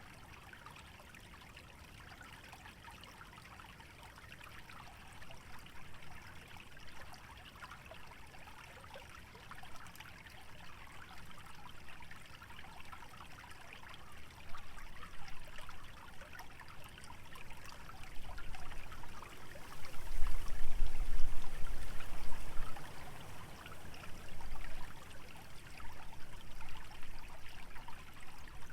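Shallow stream trickling steadily through wetland vegetation. Gusts of wind build through the second half, with low rumbling peaking about two-thirds of the way in.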